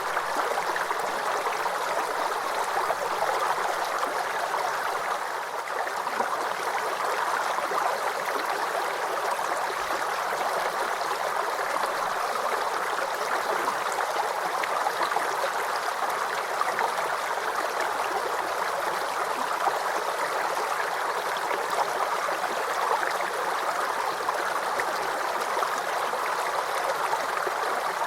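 Small forest brook babbling and gurgling over stones, a steady flow of trickling water.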